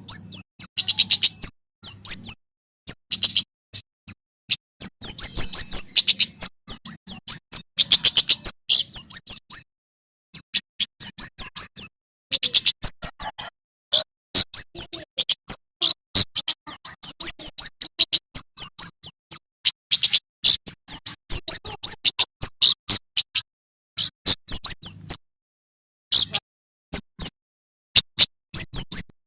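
Male prenjak keres (kemade jawa) singing: rapid strings of sharp, high chirps in bursts of a second or two, broken by short pauses.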